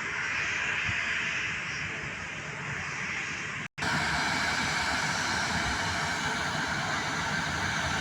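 Jet airliner engine noise at an airport runway, a steady rushing roar. It drops out briefly a little under four seconds in and comes back louder and brighter.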